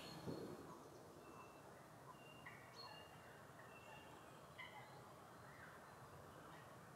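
Faint outdoor ambience with scattered short, high bird chirps, about one every second or so.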